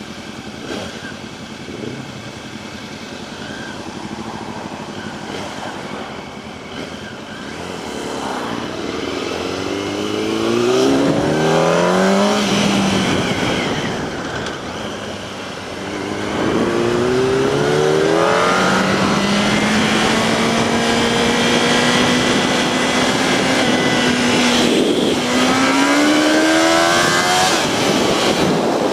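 Yamaha R1 sport bike's inline-four engine under way, pulling up through the revs twice and then holding a steady pitch at cruise before climbing again near the end.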